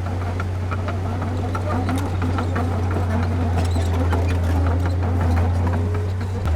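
Diesel engine of heavy earthmoving equipment running steadily with a deep, constant drone, with scattered metallic clanks and rattles over it.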